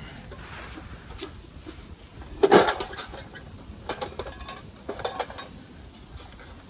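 Gear being handled: one loud rattling clatter about two and a half seconds in, then a few lighter knocks and clinks.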